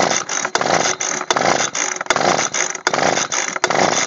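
Husqvarna 125B two-stroke leaf blower being pull-started at half choke: the recoil starter cord is yanked about five times, one pull every three quarters of a second, and the cold engine turns over without catching, because it is short of prime.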